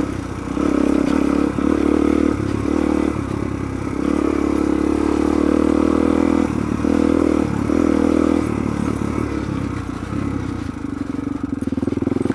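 Suzuki DR-Z400's single-cylinder four-stroke engine ridden hard off-road, the throttle opened and closed in several bursts so the engine note swells and drops repeatedly, then settles to a lower, steadier run near the end.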